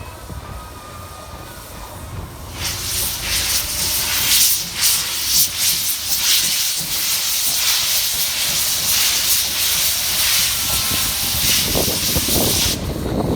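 Steam locomotive blowing off steam as it pulls away: a loud hiss starts a few seconds in, runs for about ten seconds and cuts off sharply near the end, over a low rumble.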